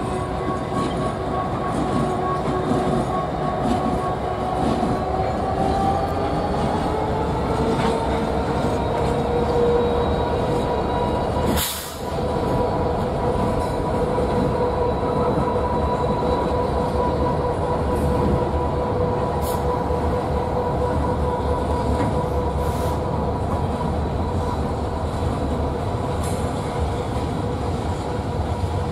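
Norfolk Southern freight train rolling steadily past, the rumble of its cars running under a continuous wheel squeal on the rails whose pitch shifts slightly a few seconds in.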